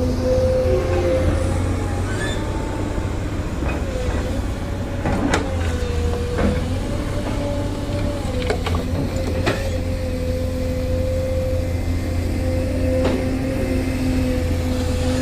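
Diesel engine of heavy earth-moving machinery running steadily with a wavering whine, broken by several sharp metallic knocks.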